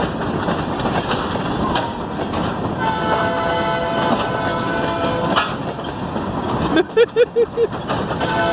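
Diesel switcher locomotive's air horn sounding a long steady chord over the rumble of the rolling train, then a quick run of four short toots near the end.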